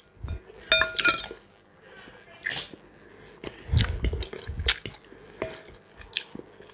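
A metal fork clinks once against a ceramic bowl about a second in, ringing briefly. Then close-up chewing of a mouthful of macaroni, with soft wet mouth clicks.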